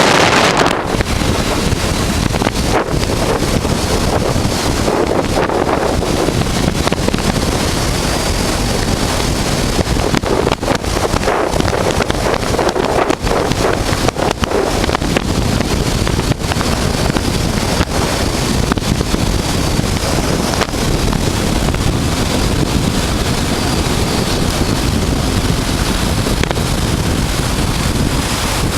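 Wind rushing over the microphone of a motorcycle riding at speed: a loud, steady, dense roar with small dips here and there.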